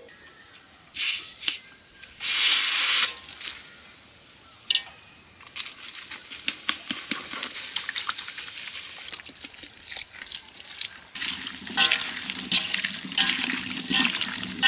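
Water splashing in two loud gushes early on, then a long run of small drips, splashes and clicks.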